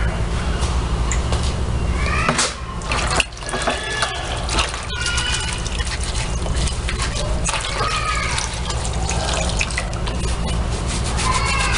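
Liquid splashing and dripping as hands are rinsed in a small amount of gasoline, with many small wet clicks throughout. Short arching high calls come now and then over a steady low hum.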